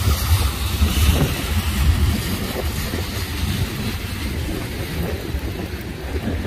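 Train rolling past, a steady low rumble with a noisy rushing above it.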